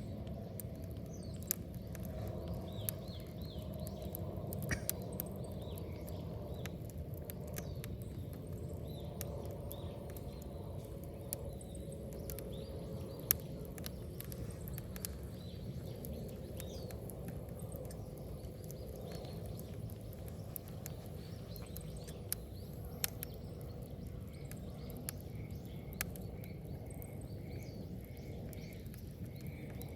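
Wood bonfire burning: a steady low rumble of the flames with scattered sharp crackles and pops from the burning wood, the loudest about a third of the way in and a few more near the three-quarter mark.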